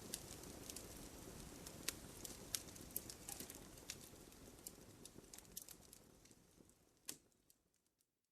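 Campfire crackling: scattered sharp pops and snaps over a soft, steady rush of burning, fading away to silence near the end.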